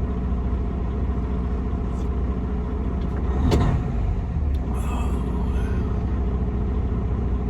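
Semi truck's diesel engine idling steadily while warming up on a cold morning, heard from inside the cab. A single sharp click or knock comes about three and a half seconds in.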